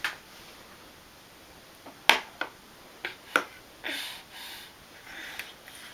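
A fork clicking sharply against a dish about four times, with a couple of short scrapes in between.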